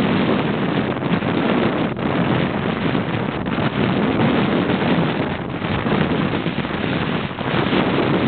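Strong wind blowing over the microphone aboard a sailboat, a loud continuous rush with small surges, in gusts the crew put at over 40 knots.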